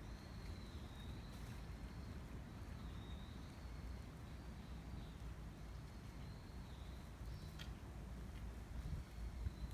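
Wind blowing through a bamboo grove: a steady low rumble with a faint rustling hiss. Over it, a faint high wavering call repeats again and again, and there are a few soft knocks near the end.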